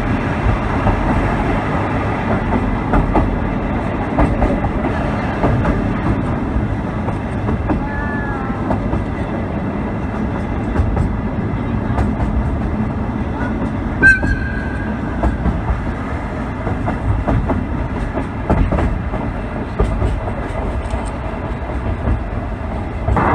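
Sightseeing trolley train car rolling along the track, heard from an open-windowed car: a steady rumble with the clicking of wheels over the rails. About fourteen seconds in a short high tone rises over the running noise.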